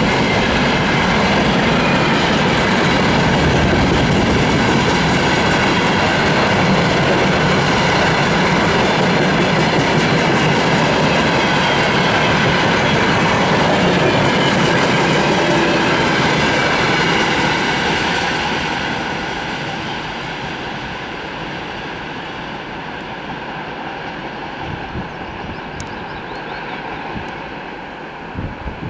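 Freight train wagons rolling past, wheels clattering over the rail joints with a steady loud rumble. The sound fades away a little over halfway through as the train moves off.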